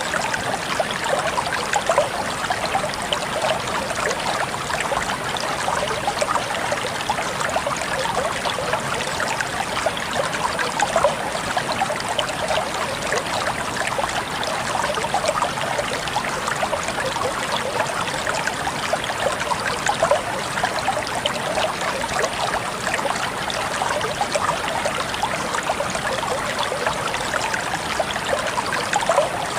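Water flowing steadily over stones in a stream, with a busy trickling and splashing sound.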